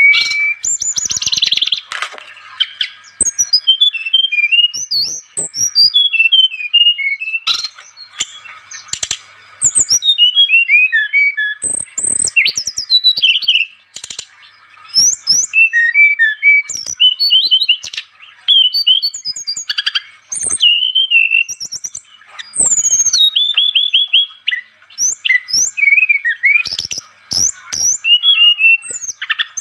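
Brown-chested jungle flycatcher (SRDC) singing: a fast, varied song of sharp chirps, rising and falling whistles and quick descending trills, delivered in bursts of a few seconds with short pauses between them.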